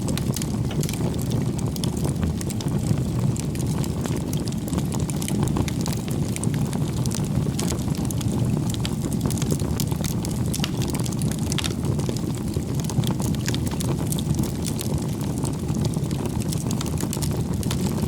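Bonfire of firewood burning: a steady low rumble of flames with frequent small crackles and pops.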